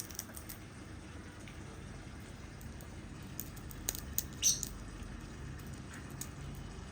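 African grey parrot nibbling and cracking a groundnut: scattered small clicks and crackles, a cluster of them about four seconds in and one more near six seconds.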